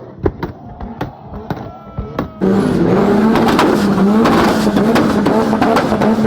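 Performance car exhaust, at first quieter with sharp pops, then loud from about two and a half seconds in: a wavering engine note with a dense stream of exhaust crackles and pops.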